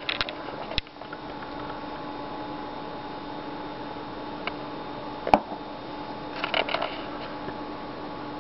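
Light handling noises, a few clicks and rustles with one sharp click about five seconds in, over a steady background hum.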